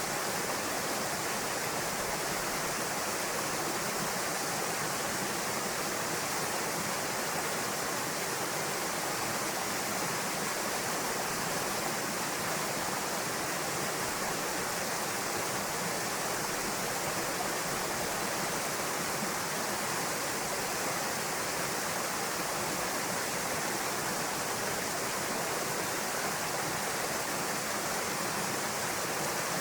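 Waterfall pouring into a pool: a steady rush of falling water that doesn't change.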